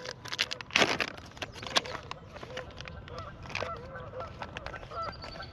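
Geese honking over and over. A few sharp clicks and rattles come in the first two seconds.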